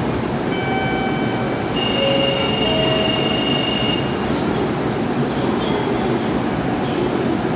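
Electric commuter train pulling out of the platform: a steady loud rumble of the train moving off, with short high steady squealing tones from the wheels about half a second in and again from about two to four seconds in.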